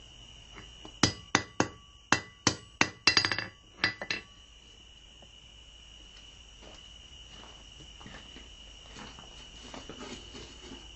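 Hand hammer striking a heated 3/8-inch square steel bar on an anvil, about a dozen quick blows over some three seconds as the bar is drawn out to a square taper; after that only faint, scattered taps.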